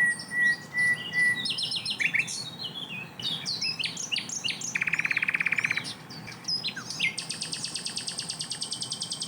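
Sikatan londo singing a fast, varied song. It opens with a held whistle, runs into quick chirps and sharp notes, gives a short buzzy trill about halfway through, and finishes with a long, rapid, high trill over the last couple of seconds.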